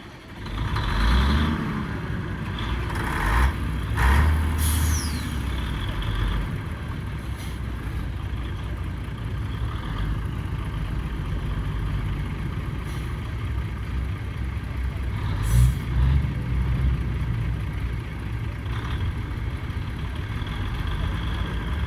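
Classic lorry engines starting up and running, with several blips of revs that come as louder surges about a second in, around three to four seconds in and again past the middle. Short hisses of air from air brakes come through too.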